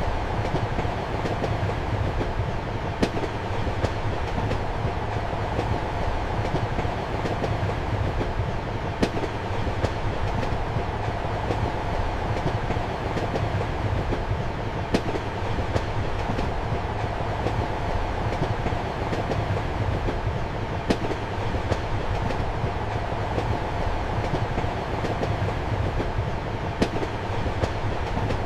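Passenger train carriage running steadily, heard from inside the compartment: an even rumble of the wheels on the track, with a sharp clack of the wheels over a rail joint about every six seconds.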